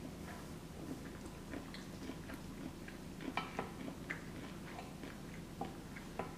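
A person chewing a mouthful of cheesy pasta, with small irregular wet clicks and a metal fork working in a glass baking dish.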